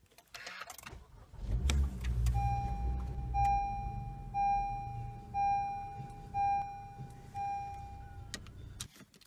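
A car engine started with the push button and settling into idle, heard from inside the cabin. Over the idle the seatbelt reminder chimes about once a second, six times, before everything stops abruptly near the end.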